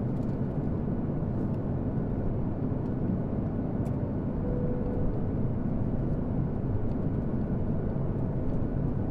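Steady low drone of an airplane in flight, an even rumble with no change in pitch.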